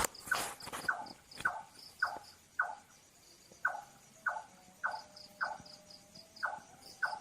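A night bird calling a short note that falls in pitch, repeated about twice a second. Behind it, insects chirp in quick pulsed runs, and a few sharp clicks come in the first second.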